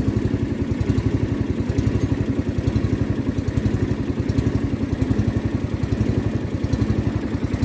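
Small boat engine running steadily at a constant speed, with a fast, even low thudding pulse.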